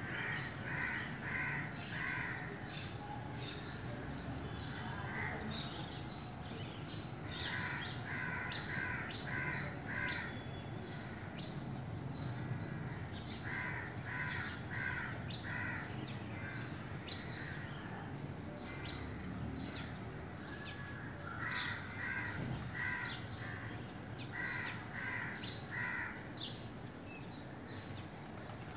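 A bird calling in runs of three to five harsh, caw-like notes, repeated about five times, with short, high chirps from small birds in between.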